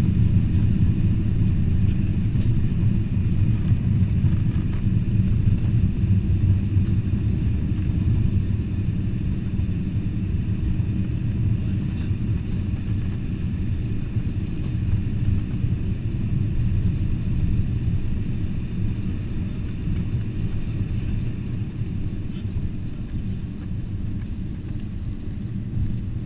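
Cabin noise inside a Boeing 747-400: a steady low rumble from the engines and airframe, slowly easing off.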